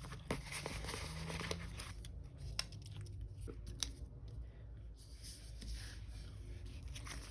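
Sticker sheets and paper being handled on a desk: light rustling, with scattered small clicks and taps.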